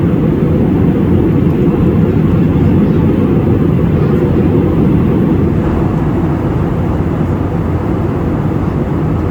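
Steady, loud airliner cabin noise in flight: a low, even rumble of jet engines and airflow heard from a window seat.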